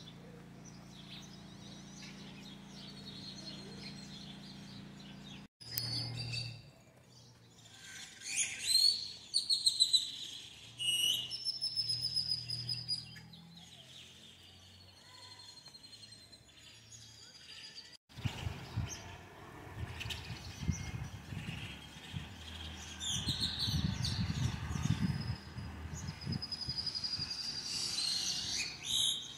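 Several birds chirping and singing outdoors, with quick high calls that rise and fall and overlap. A low rumble runs underneath in the second half.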